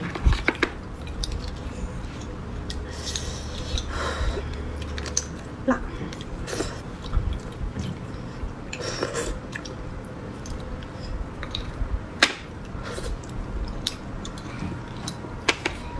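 Close-miked mouth sounds of a person chewing and biting beef bone marrow and fatty meat, with irregular wet smacks and clicks. A low hum runs underneath and stops about five seconds in.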